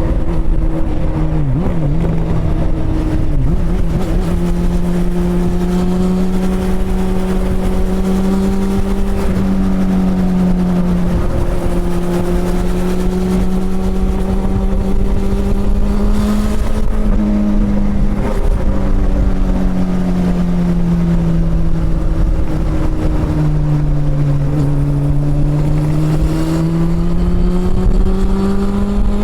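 Honda CB400 Super Four's inline-four engine running under way, its note rising and falling gently with the throttle, dipping twice and climbing again near the end.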